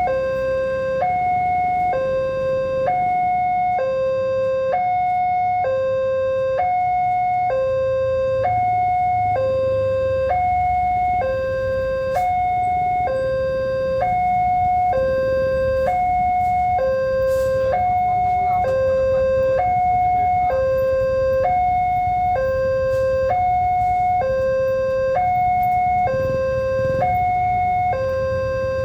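Railway level-crossing warning alarm: an electronic two-tone signal alternating between a lower and a higher tone, about a second each, repeating steadily. A low rumble runs underneath.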